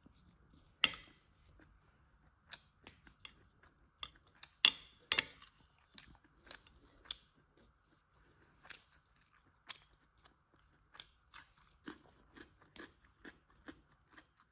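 Crunchy food being bitten and chewed: sharp, irregular crunches, the loudest about a second in and a pair around five seconds in, with lighter chewing crunches between.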